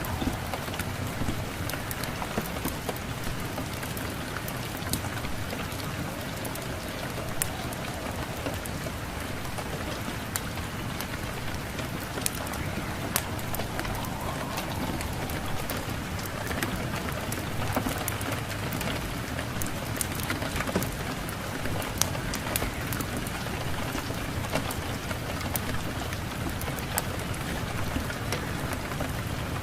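Steady rain mixed with a crackling wood fire: an even hiss with sharp pops scattered irregularly throughout.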